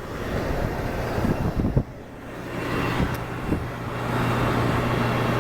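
Rheem central air conditioner's outdoor condenser unit running in cooling mode: steady fan air noise over a low compressor hum. A few knocks in the first two seconds.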